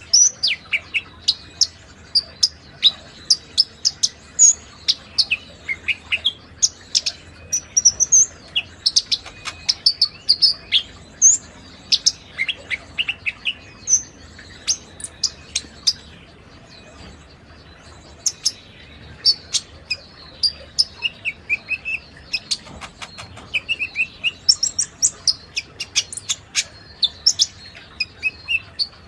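Konin songbird chirping and singing in rapid short, high notes, a recording played as lure song to set a caged konin singing. The notes come in quick clusters, with a short pause about halfway through.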